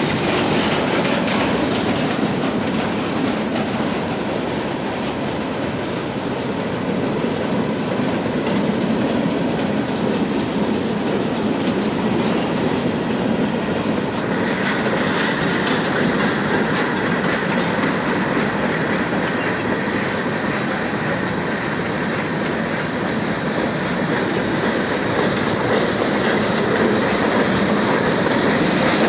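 Freight train cars rolling past, their wheels clacking over the rail joints in a steady, continuous run. A higher-pitched hiss joins about halfway through.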